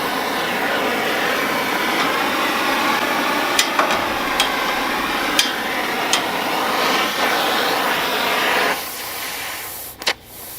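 Oxy-acetylene torch with a rosebud heating tip burning with a steady hiss, a few sharp ticks over it. It drops off sharply near the end, followed by a single sharp click.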